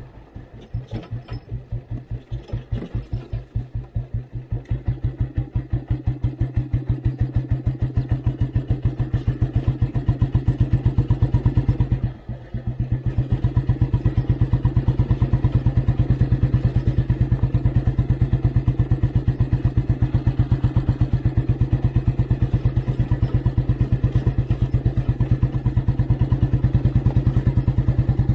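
Old Royal Enfield Bullet Standard 350's single-cylinder four-stroke engine thumping along under way. Its beat quickens over the first several seconds, drops off briefly about twelve seconds in, then holds a steady pace.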